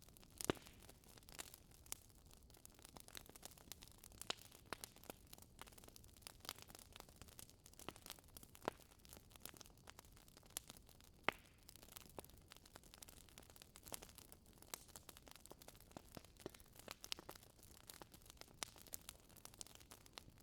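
Wood fire crackling in a fireplace: irregular sharp snaps and pops over a faint steady hiss, with louder pops about half a second in and about eleven seconds in.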